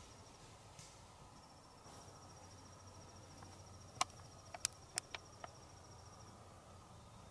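A cricket trilling high and fast, in a steady pulsed run that breaks off briefly near the start and stops about a second before the end. Five or six sharp clicks come in quick succession past the halfway point and are the loudest sounds.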